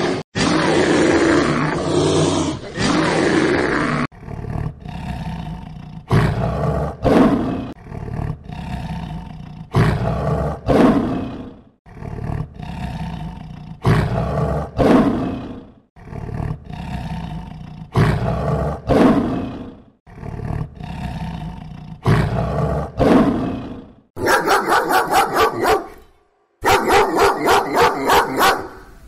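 A lion roaring: a long series of deep calls, each about a second long, coming in pairs about every two seconds. Before this there is a continuous animal call, and near the end a different, rapid pulsing call comes in two bursts.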